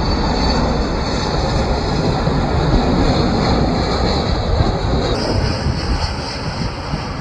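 Jet airliner engine noise: a loud, steady rumble with hiss that eases slightly near the end.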